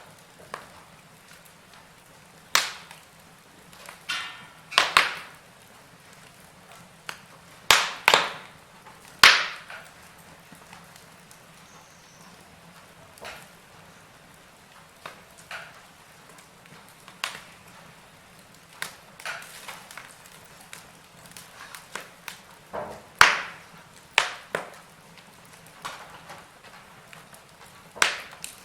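Wood fire burning in a fireplace, crackling with sharp, irregular pops every few seconds over a faint steady hiss.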